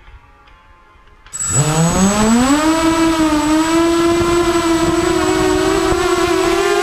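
Walkera Runner 250 quadcopter's brushless motors spinning up: after a quiet start they kick in suddenly about a second in, their whine rising quickly in pitch, then holding a loud steady hum as heard from the camera on the drone's frame.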